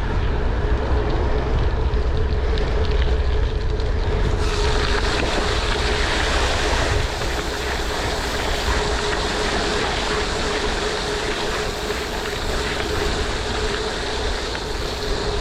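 Wind buffeting the microphone over rushing water, with a steady hum throughout. The rushing turns brighter and louder about four seconds in.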